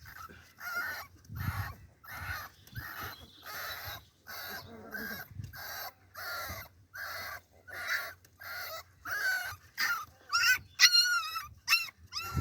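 Puppy crying in a steady run of short hoarse cries, about two a second, that turn into louder, higher whining cries near the end.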